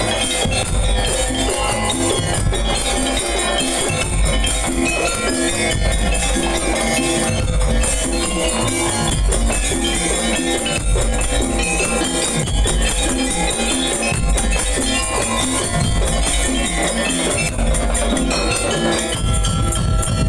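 Madurese daul music: a percussion ensemble playing loudly and continuously, a heavy bass drum beat under a repeating melodic figure on tuned percussion.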